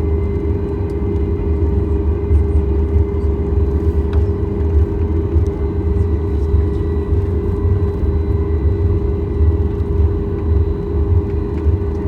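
Cabin noise inside a Boeing 737 MAX 8 on the ground with its CFM LEAP-1B engines idling: a steady low rumble under a constant mid-pitched hum.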